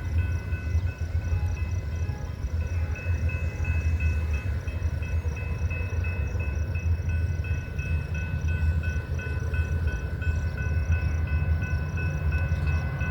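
Metra commuter train pulling into the station: a steady heavy low rumble from the diesel locomotive and cars, with a high dinging that repeats about three times a second.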